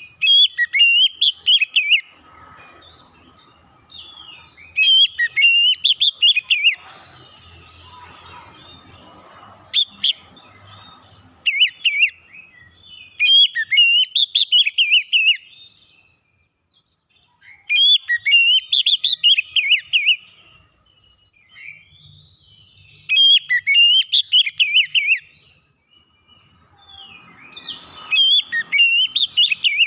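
Oriental magpie-robin (kacer) singing loud, rapid phrases of varied whistles and trills in repeated bursts of one to four seconds, with short pauses between bursts.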